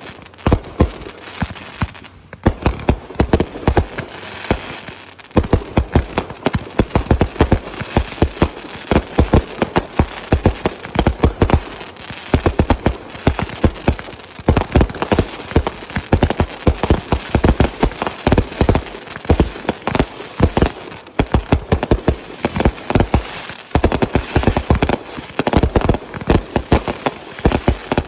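Fireworks going off in a continuous rapid barrage: many sharp bangs and crackles a second, barely pausing twice in the first few seconds.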